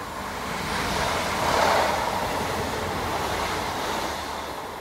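Heathrow Express Class 332 electric multiple unit passing through at speed: a rush of wheel and rail noise that swells to its loudest about a second and a half in, holds while the carriages go by, then fades away.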